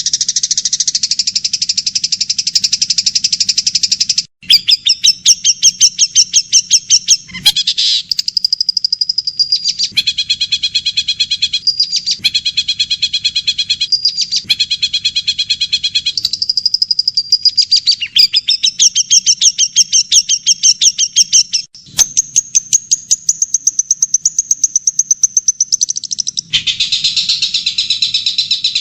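Recorded songbird calls spliced one after another as tutor material for a shrike: a dense buzzing trill for the first four seconds, then rapid repeated chirps, short whistles and chattering trills, the pattern changing abruptly every few seconds.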